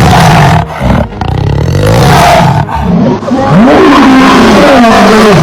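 Big cat roaring loudly: a series of rough, drawn-out roars that rise and fall in pitch.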